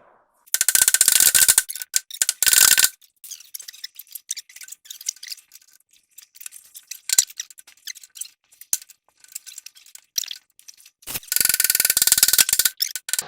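Power impact tool hammering in three loud bursts, the first two close together and the third near the end, with scattered metallic clicks and clinks between them, as the tie rod end on a GMC Jimmy's steering linkage is worked loose.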